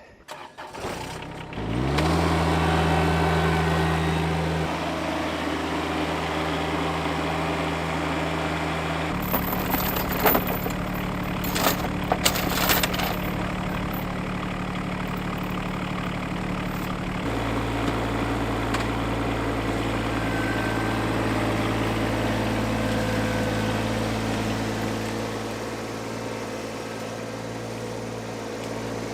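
John Deere X748 garden tractor's diesel engine starting and then running steadily, its speed stepping up and down a few times as it is throttled to pull a log out of soft ground. A few sharp metallic clanks come in the middle.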